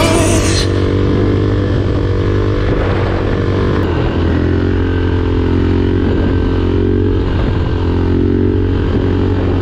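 Suzuki DRZ single-cylinder four-stroke motorcycle engine running steadily at an even speed, just after a fresh rebuild.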